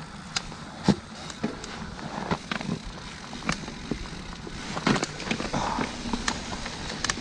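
Mountain bike rattling and clattering over a rough dirt trail: irregular clicks and knocks from the bike over the steady noise of the tyres and wind on the microphone.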